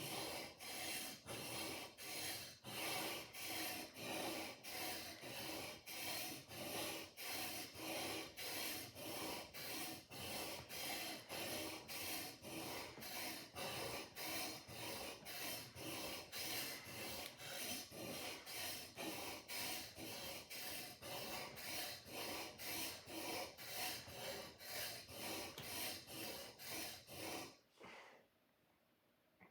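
Sword blade being sharpened, with rhythmic rasping strokes at about two a second that stop abruptly near the end.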